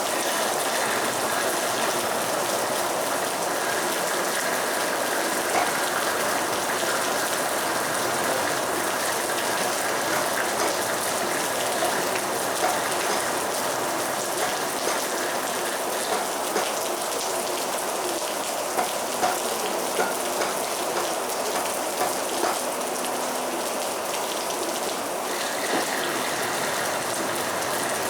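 Heavy rain falling steadily in a dense, even hiss, with scattered louder drops striking a surface, more often in the second half.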